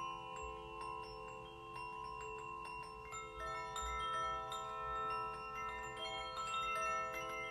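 Steel tongue drum (glucophone) notes struck one after another and left to ring, many pitches overlapping in long sustains, with a cluster of new notes a few seconds in. Small light metallic tinkles sound high above them.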